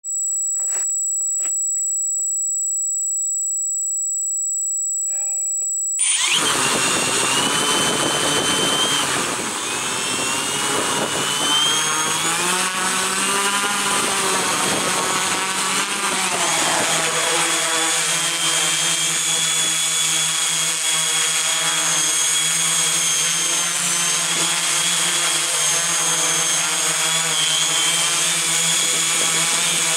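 A multirotor drone's electric motors and propellers start up about six seconds in and keep running with a whine, their pitch wavering at first and then settling steady. Before that there is only a steady high-pitched tone.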